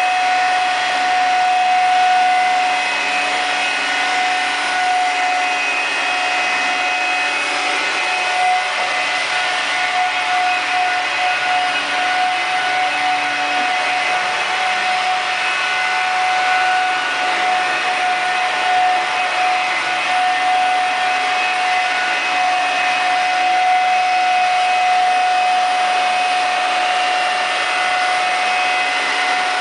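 Electric scale RC helicopter modelled on a Pave Hawk, running steadily: a high, steady motor whine over the hiss of the rotors and gears.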